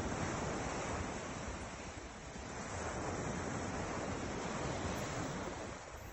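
Ocean surf washing in: a steady hiss of breaking waves that swells, eases slightly about two seconds in, swells again and fades near the end, with a low rumble of wind on the microphone underneath.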